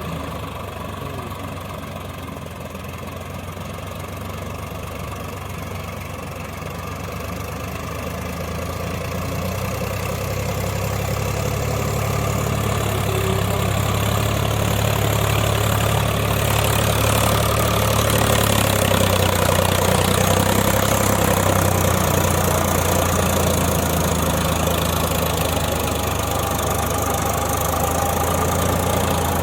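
Swaraj 744 FE tractor's three-cylinder diesel engine running steadily while plowing wet mud under load, growing louder over the first half and then holding.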